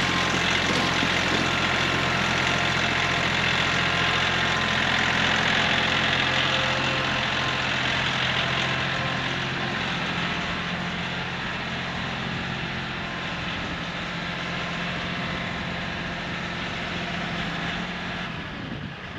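Tractor engine running steadily, gradually growing quieter over the second half.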